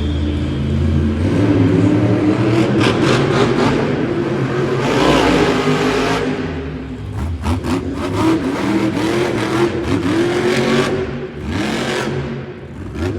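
A monster truck's supercharged V8 is revved hard and let fall again and again during a freestyle run, with sharp knocks throughout.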